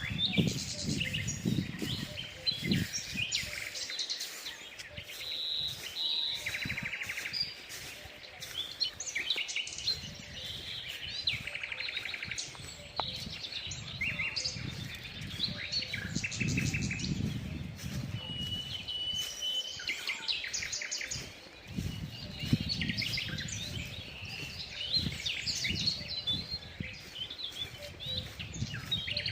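Several small songbirds chirping and singing, many short calls and trills overlapping, with one held whistle about two-thirds of the way through. A low rumble rises and fades underneath at times.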